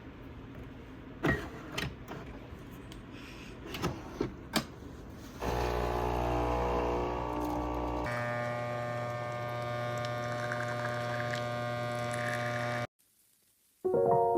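A few light clicks, then a small electric motor starts with a steady hum, changes pitch about two-thirds of the way in, and cuts off abruptly.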